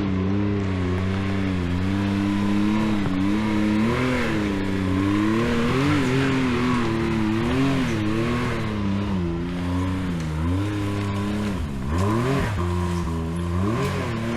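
Side-by-side UTV engine working an off-road climb, the revs rising and falling constantly as the throttle is fed and eased. It has a couple of sharper drops and recoveries near the end.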